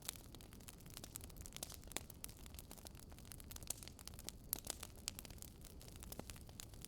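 Fireplace crackling: irregular sharp pops and snaps over a low, steady rumble.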